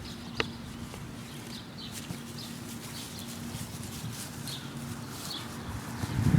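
Faint short bird chirps repeating every half second or so over a steady low hum.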